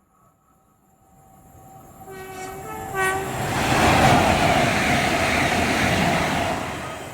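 A train sounds a few short two-tone horn blasts as it approaches, then rushes past at speed, the noise swelling quickly and fading away.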